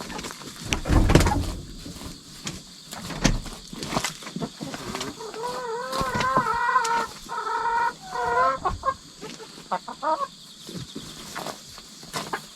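Hens vocalising: a drawn-out, wavering call lasting several seconds in the middle, with short clucks around it. Scratching and knocking of a hen digging in the floor litter, loudest about a second in.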